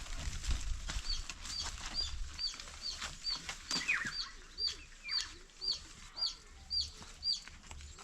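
Chickens calling: a high peep repeated evenly about twice a second, with a few lower, falling calls mixed in.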